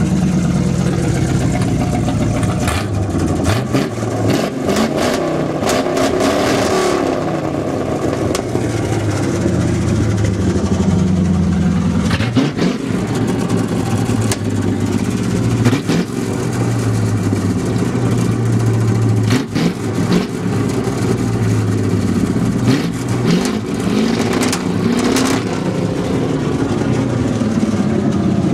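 Exhaust of a ZMZ-523 4.7-litre V8 with an H-pipe, idling and revved up and let fall back several times, the pitch rising and dropping with each blip.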